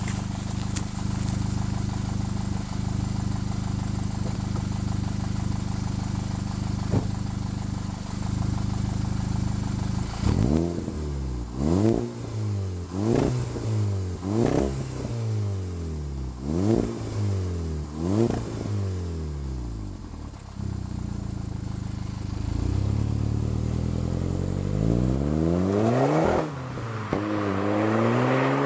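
VW Golf GTI Mk5's 2.0 TFSI turbocharged four-cylinder heard through a non-resonated 3-inch Cobra catback exhaust. It idles steadily, then is blipped in six quick revs roughly a second and a half apart. It drops back to idle before two longer, slower revs near the end.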